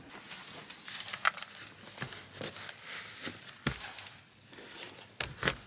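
Footsteps in sneakers on a floor and doormat, with scattered light knocks and rattles, about seven in all.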